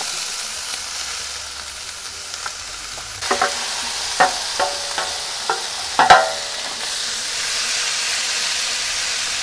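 Chopped vegetables sizzling on the hot steel plancha of a gas grill as they are tipped on and stirred, a steady frying hiss that grows a little louder in the second half. A few sharp clinks from the utensil or tray against the plate come between about three and seven seconds in, the loudest just after six seconds.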